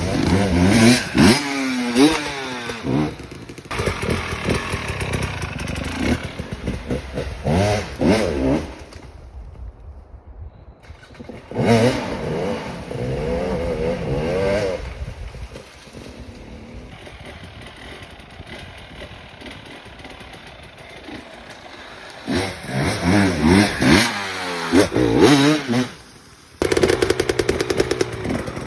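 Dirt bike engine revving hard on an enduro hill climb, its pitch rising and falling again and again with the throttle. It drops to a quieter, lower running for stretches in the middle and revs hard again near the end.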